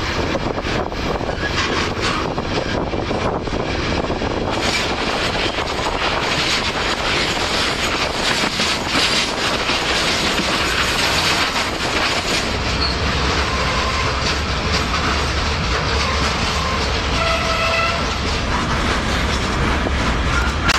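Freight train heard from aboard while it runs along the track: a steady rumble and rush with the clickety-clack of wheels over rail joints. The low rumble grows heavier past the middle, and a brief pitched squeal sounds near the end.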